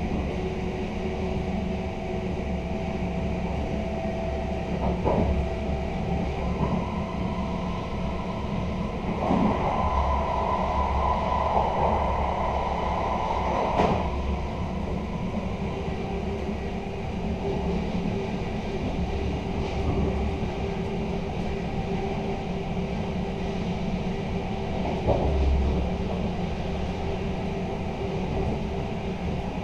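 Intercity passenger coach running on the rails, heard from inside its door vestibule. A steady low rumble of wheels and running gear carries a few steady tones, a few single knocks, and a louder hissing stretch lasting several seconds about a third of the way in.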